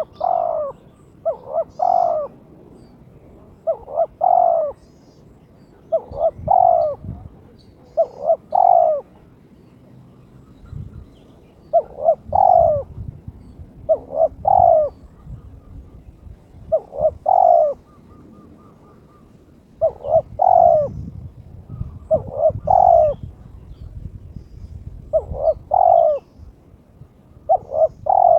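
Male spotted dove cooing over and over, each phrase a group of two or three hoarse coos, a phrase every couple of seconds with a few short pauses. It is the call of a bird in breeding condition challenging a rival.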